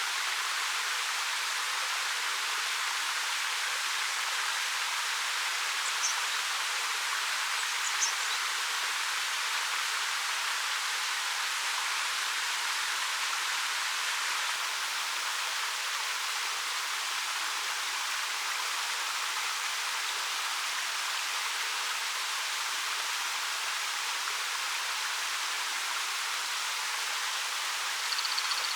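Waterfall of about 13 m pouring over rock: a steady, even rush of falling water. Two brief high chirps stand out about six and eight seconds in, and a short high buzzy note near the end.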